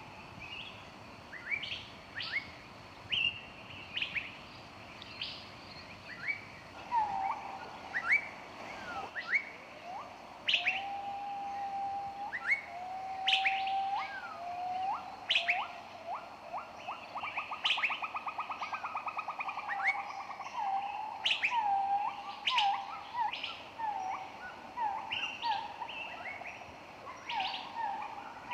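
Several songbirds chirping and singing together: many short, sharp high chirps, with lower whistled notes joining about a quarter of the way in and a fast, even trill about midway.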